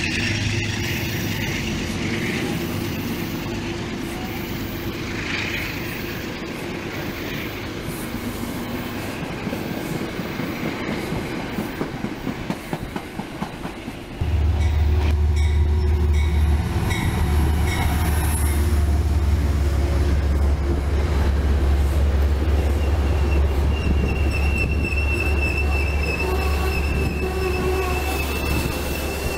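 Metro-North commuter train cars rolling along the track with a steady rumble and the click of wheels over rail joints. At an abrupt change about halfway through, a loud low rumble comes in, and for the last few seconds a high steady wheel squeal sounds from the passing coaches.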